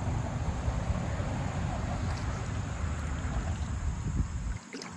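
Wind buffeting the microphone as a steady low rumble, which drops away suddenly near the end.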